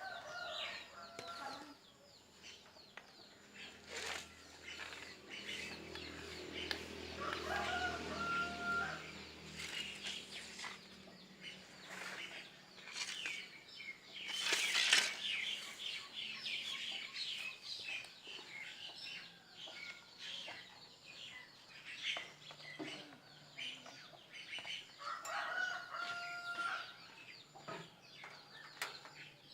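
Chickens clucking and other birds chirping, with short drawn-out calls and one loud burst of wing flapping about halfway through.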